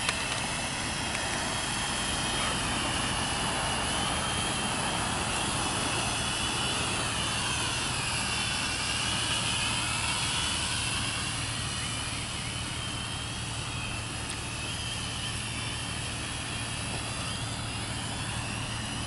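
Small R/C drone's propellers whining, the pitch wavering up and down as the motors speed up and slow down, over gusty wind noise.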